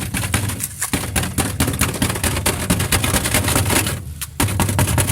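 Rapid, continuous rattling and knocking at rusted truck body metal as it is broken away, over a steady low hum, pausing briefly about four seconds in.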